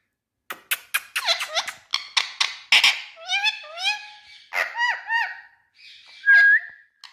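Indian ringneck parakeet chattering: a quick run of sharp clicks and short squawks, then repeated bending, voice-like calls, and a short clear whistle near the end.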